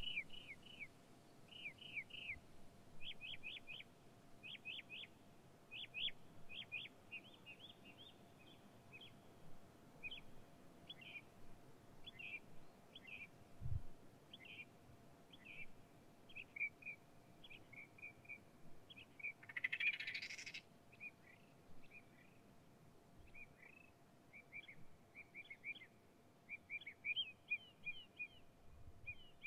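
Small birds chirping in quick series of short, high, downward-slurred notes, again and again with short gaps. About twenty seconds in there is a brief burst of hiss.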